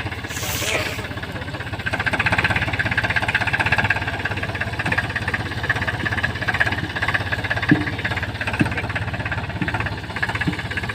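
Tractor engine running steadily just after starting, with a fast even firing rhythm that grows louder about two seconds in. A brief hiss sounds near the start.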